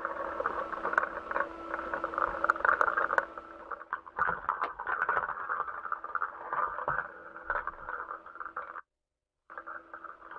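Crackling, hissy radio-channel background noise with a steady low hum and scattered clicks, cutting out completely for about half a second near the end.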